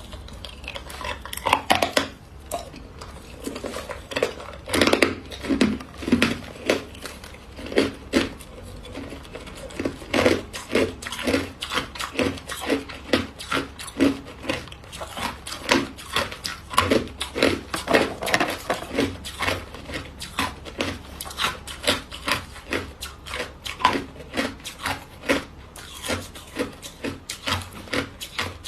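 Hard white ice block being bitten and chewed, a steady run of sharp crunches at about two or three a second.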